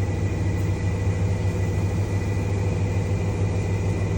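Washing machine drum spinning at speed in its spin-dry (dehydration) cycle: a steady low hum with a thin, steady high whine above it.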